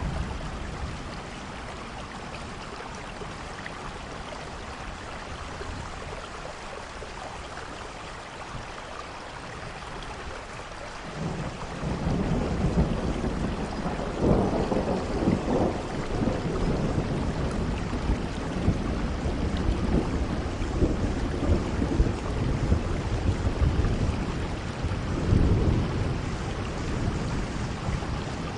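Steady rain falling, with rolling thunder that comes in about eleven seconds in and swells twice, in the middle and near the end.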